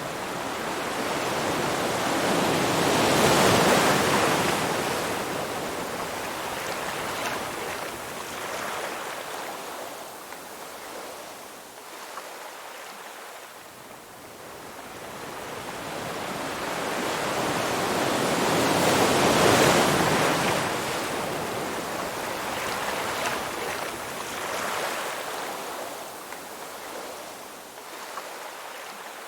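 Ocean waves breaking and washing ashore: two swells, about sixteen seconds apart, each building to a loud crash and then receding into a softer hiss of surf.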